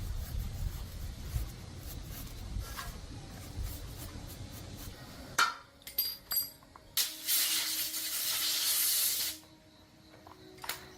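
Low rubbing and handling noise, then a few sharp metallic clicks and clinks, then a steady spray hissing for about two seconds that cuts off suddenly.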